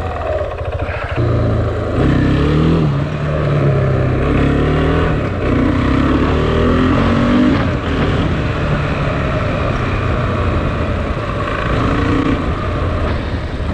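KTM Duke 690's single-cylinder engine running while the bike is ridden. The revs rise about a second in, then climb steadily under acceleration a few seconds later before dropping back.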